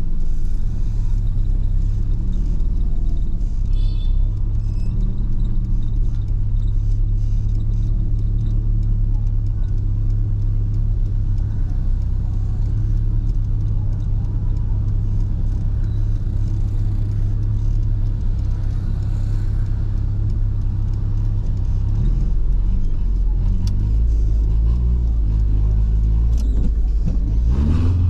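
VW Gol's CHT engine, fitted with a mini turbinho exhaust, running steadily with a low rumble while driving; near the end the engine note rises as it is revved up.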